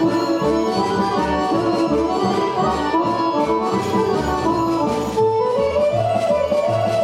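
Serbian traditional folk music led by accordion, a running melody over a steady bass beat.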